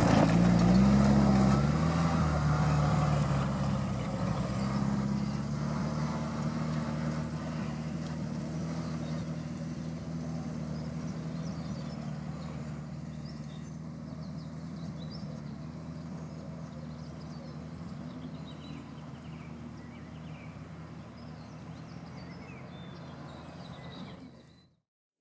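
Off-road vehicle engine running, its note wavering in pitch at first and then holding steady while it grows steadily fainter as the vehicle moves away. The sound cuts off abruptly near the end.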